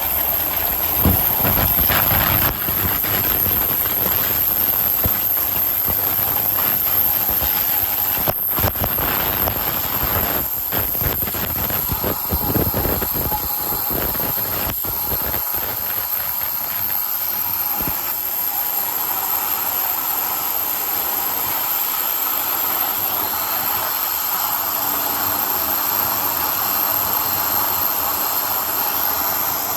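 Glass bottle washing machine running: a steady hiss with irregular knocks and clatter through the first half, settling to an even hiss for the rest.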